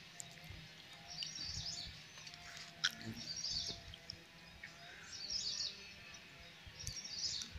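A bird singing short, high chirpy phrases about every two seconds, faint, with one sharp click about three seconds in.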